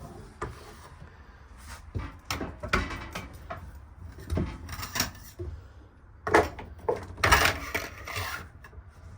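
Sink cover being handled and set down over a camper's kitchen sink: scattered knocks and scrapes against the counter, loudest about six to eight seconds in, with a longer sliding scrape around seven seconds.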